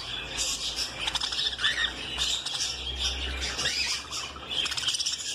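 Budgerigars chattering, a dense run of quick chirps and short warbled calls.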